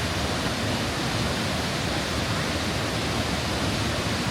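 Large waterfall on the Krka River rushing: a steady, even wash of falling water.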